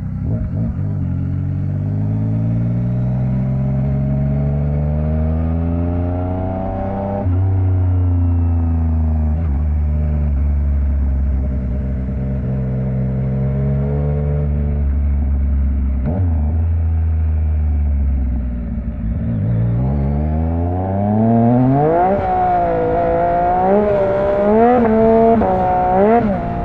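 Yamaha MT-09's three-cylinder engine through an Akrapovic exhaust under way: the pitch rises under acceleration, drops suddenly at a gear change about seven seconds in, holds steady through the middle, then climbs steeply near the end and rises and falls quickly as the throttle is worked.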